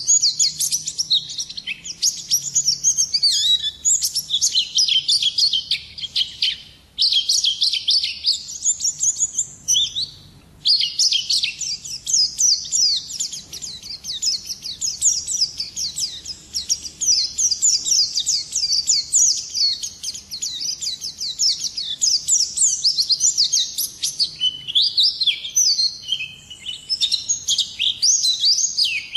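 Pleci (white-eye, Zosterops) singing a fast, continuous high-pitched twittering song, broken by two short pauses early on.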